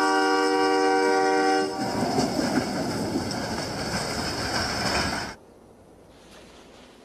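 Locomotive air horn holding a multi-note chord that stops a couple of seconds in, followed by the loud rushing noise of a wedge snowplow train passing close and throwing snow. About five seconds in the sound cuts off abruptly to a faint background.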